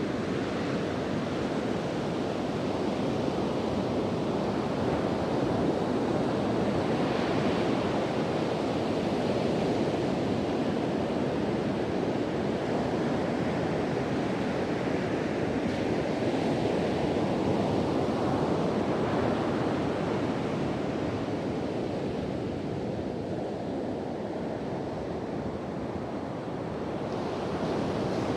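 Ocean surf breaking and washing on a beach, a continuous rushing that swells and eases as waves come in, with wind buffeting the microphone.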